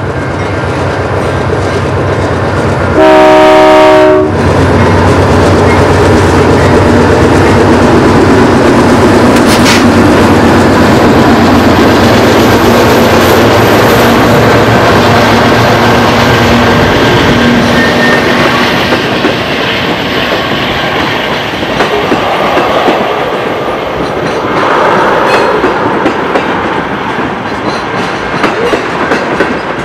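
CN freight train passing close: one short chord blast of the diesel locomotive horn about three seconds in, then the locomotives' engines and wheels going by and the tank cars rumbling and clattering over the rails.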